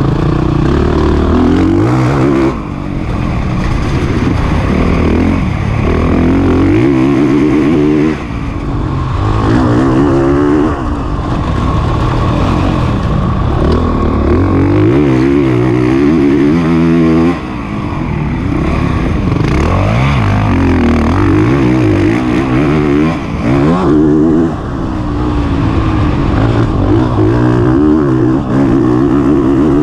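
Single-cylinder four-stroke engine of a 2021 Honda CRF450RX motocross bike revving up and down hard through the gears under load. The throttle is chopped briefly several times.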